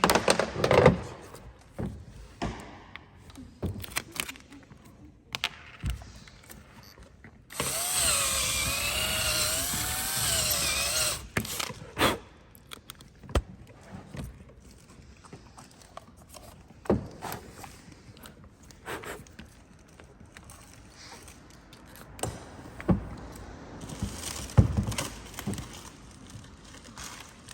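Power drill running for about three and a half seconds while drilling a hole, its pitch wavering with trigger and load. Scattered clicks and knocks of tools and parts being handled come before and after it.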